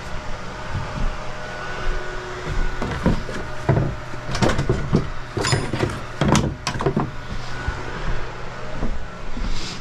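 An engine idling steadily, with a run of clanks and knocks in the middle.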